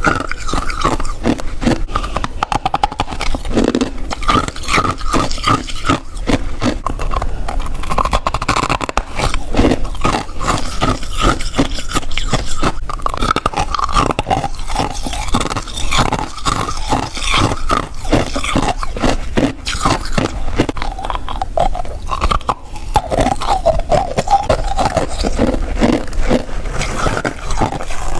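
Close-miked biting and chewing of freezer frost: a dense, continuous run of crunches and crackles.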